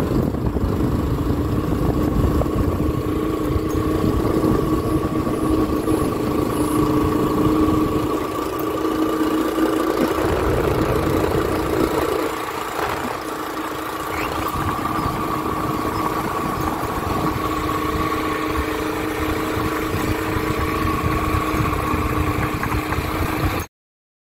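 A vehicle engine running steadily with a constant hum and rumble, which cuts off suddenly near the end.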